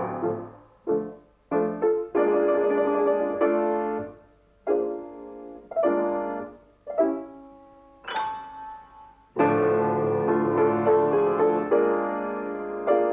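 Piano music: chords and short phrases struck and left to ring and fade, with brief pauses between them.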